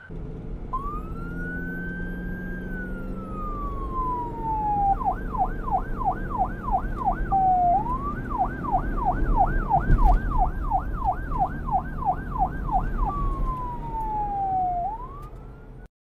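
Electronic police siren switching between a slow rising-and-falling wail and a fast yelp of about three warbles a second, over a low rumble. A brief sharp knock comes about ten seconds in, and the siren cuts off just before the end.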